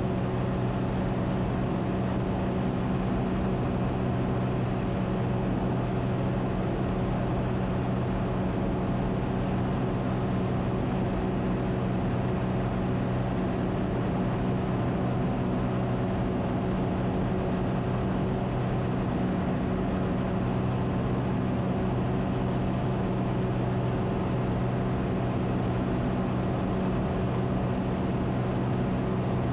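Ikarus C42's Rotax 912 flat-four engine and propeller droning steadily in flight, heard from inside the cockpit.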